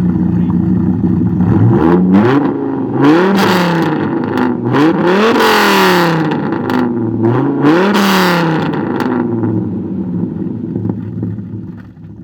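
Dodge Viper V10 engine idling and revved four times in quick rises and falls of pitch through its exhaust, settling back to a steady idle each time.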